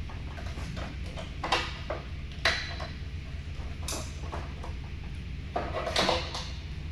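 Plastic truck grille and its parts knocking and clattering as it is handled into place on the bumper, a few separate clicks followed by a longer rattle near the end, over a steady low hum.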